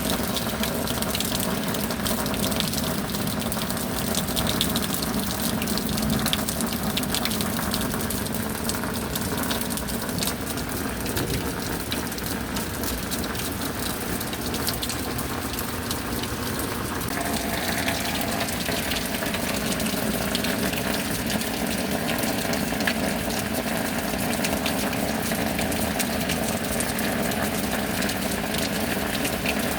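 Steady rain falling, a dense, even patter of drops, whose tone shifts slightly about seventeen seconds in.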